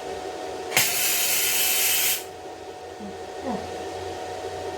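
Welding arc striking with a click and hissing for about a second and a half before cutting off suddenly, a short tack weld, over a steady machine hum.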